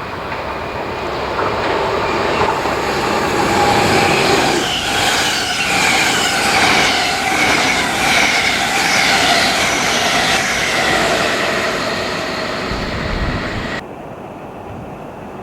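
A train passing through a station at speed: the rumble and rail noise build up, hold loud for several seconds with a high whine over it, then fade away near the end.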